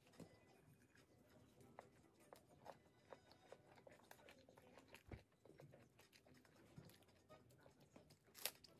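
Faint close-up chewing of a perilla-leaf wrap of spicy stir-fried chicken (dakgalbi), with scattered small mouth clicks, a soft low thump about halfway and a sharper click near the end.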